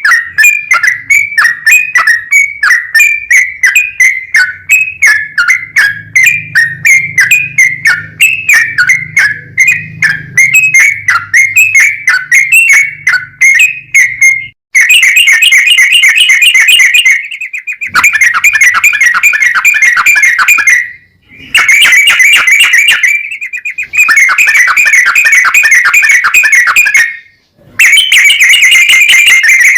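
Yellow-vented bulbul (trucukan) singing loudly. It starts with a run of repeated slurred whistles, about three a second. Roughly halfway through it switches to fast rolling trills in bursts of a few seconds, with short breaks between them.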